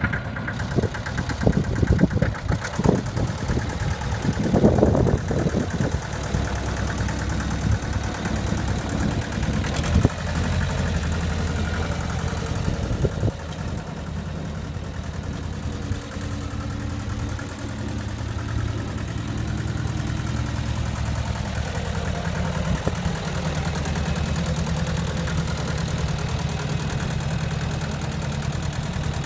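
Massey Ferguson 210 tractor's two-cylinder diesel engine running unevenly with knocks for the first few seconds, then settling into a steady idle.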